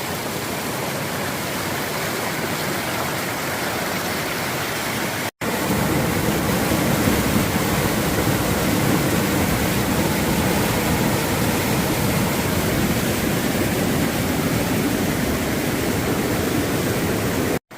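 Steady rushing of a rain-swollen river's rapids. It cuts out for an instant about five seconds in and comes back slightly louder and deeper.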